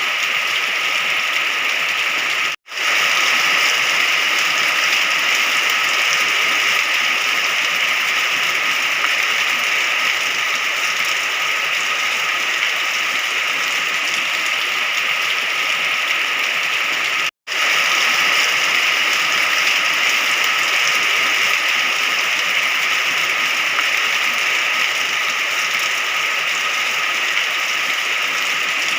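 Steady rain noise, an even continuous hiss of rainfall, that cuts out for a split second twice, once near the start and once about halfway through.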